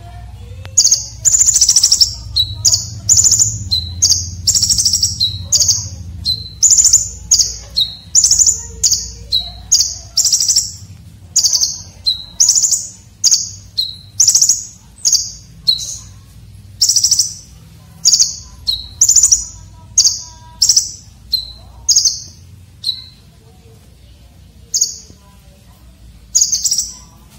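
Konin dada merah (red-breasted konin) calling over and over: short, rough, sharp scratchy calls about once a second, each opened by a brief thinner note.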